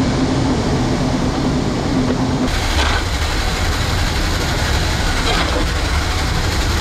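Heavy machinery running steadily with a low rumble. A steady hum under it stops about two and a half seconds in.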